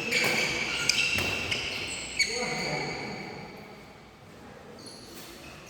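Badminton play on an indoor court: sharp hits and short high squeaks, busiest in the first two seconds, then quieter.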